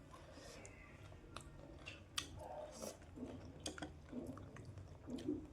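A mouth chewing crunchy puffed-rice jhalmuri, with irregular crisp crunches and soft mouth sounds.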